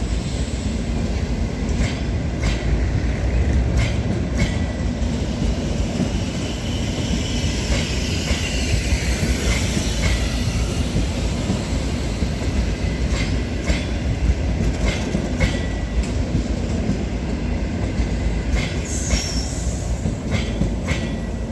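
Passenger train rolling out of a station: steady rumble of the coaches, with wheels clicking over rail joints every second or two and brief high wheel squeals now and then.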